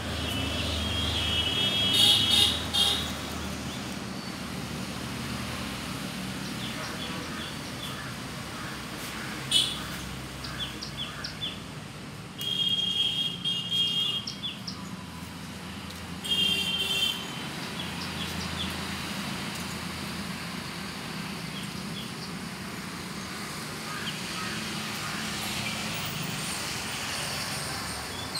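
Birds chirping in short runs of high, repeated calls, loudest about two seconds in, around thirteen seconds and around seventeen seconds, over a steady low hum of road traffic.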